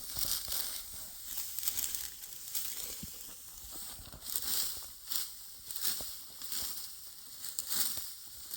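Dry wheat stalks rustling and crackling in irregular swishes, about one every second or two.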